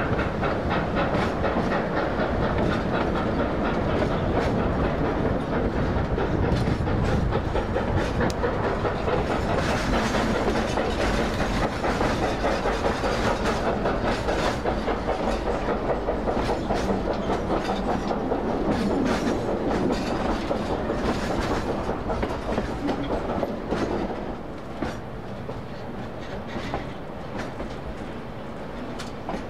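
Narrow-gauge passenger train rolling along behind a steam locomotive, heard from an open car window: a steady rumble of wheels on rail with many sharp clicks from the rail joints. It grows quieter about 24 seconds in.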